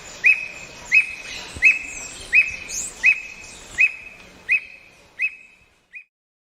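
A bird repeating one short, clear, upslurred whistled note, nine times at an even pace of about three notes every two seconds, with the series stopping near the end. Other birds call faintly behind it.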